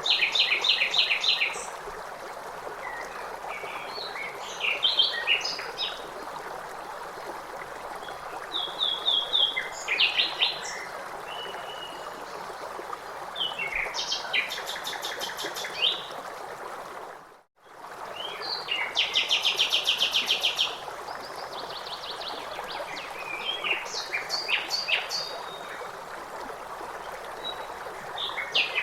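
Songbirds singing short, rapid trilled phrases every few seconds over the steady rush of a stream. The sound fades out and comes back briefly about two-thirds of the way through.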